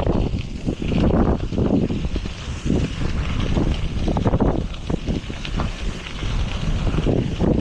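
Wind buffeting the microphone while cycling: a loud, gusting low rumble that swells and drops every second or so.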